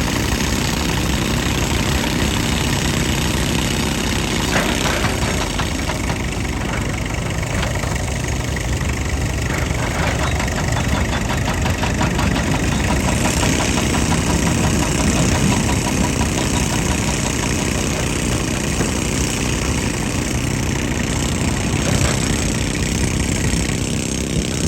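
Excavator's diesel engine running steadily, with a rapid rattling clatter from about five to twelve seconds in.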